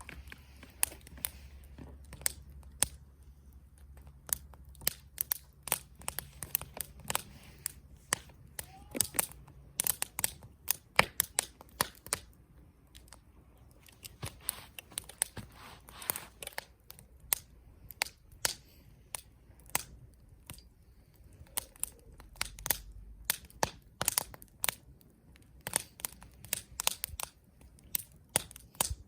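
Wood campfire crackling: irregular sharp pops and snaps from the burning logs, several at a time in quick bursts about a third of the way in and again near the end.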